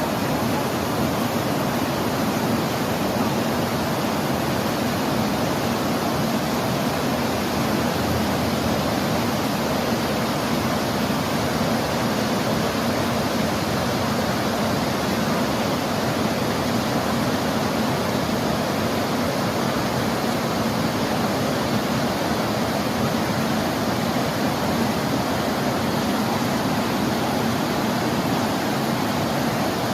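Steady, even rush of a fast-flowing river.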